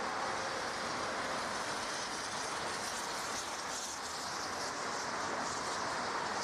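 Jet airliner engines running, a steady rushing noise that holds at an even level.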